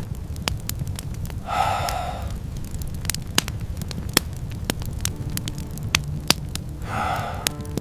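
Wood fire crackling, with irregular sharp pops over a steady low rumble. Two short higher-pitched sounds come through, about a second and a half in and near the end.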